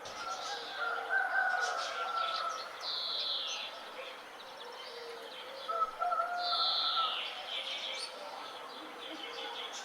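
Several birds chirping and calling, with two longer falling calls about three and six seconds in.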